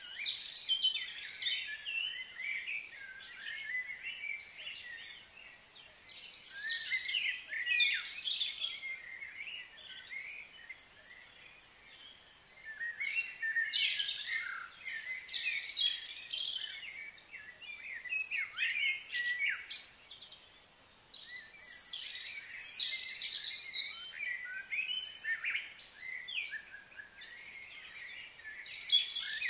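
Wild birds chirping and calling in bursts of many short notes, with brief lulls between clusters, over a faint steady hiss of outdoor background noise.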